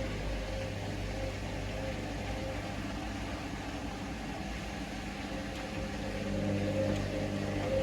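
Hoover Link washing machine's motor turning the drum at a steady low speed, a hum with a higher whine over it, as it tumbles the load trying to balance it for the intermediate spin; the load is out of balance, so the machine keeps failing to go into spin.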